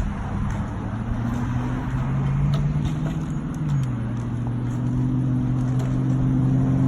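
An engine running steadily and growing gradually louder, its pitch dropping a step a little past halfway.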